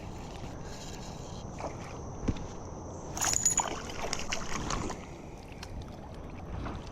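Steady rush of flowing creek water around a kayak, with scattered knocks and rattles from handling in the boat, one sharp knock a little past two seconds in and a busier cluster from about three to five seconds.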